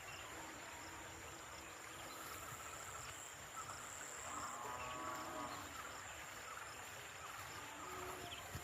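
Faint outdoor ambience with a steady, high-pitched insect drone, and a short distant animal-like call about four to five seconds in.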